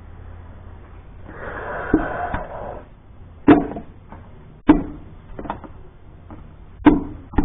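Tool work on a Massey Ferguson 165 tractor engine during teardown: scraping and shuffling for a second or two, then about five sharp knocks and clanks spread over four seconds.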